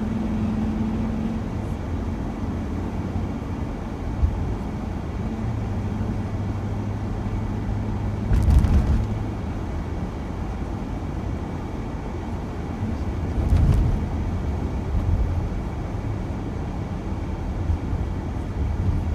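Road and engine noise inside a moving passenger van: a steady low drone, with two brief louder thumps, about eight and a half and fourteen seconds in, like the tyres going over bumps.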